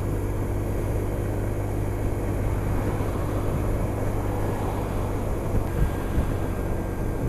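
Honda SH 300i scooter cruising at steady motorway speed: its single-cylinder engine drones evenly under wind and road noise.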